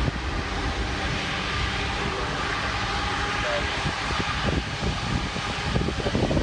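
Jet airliner engines heard at the airfield: a steady rushing noise with a few faint steady tones, growing rougher and fluttering near the end.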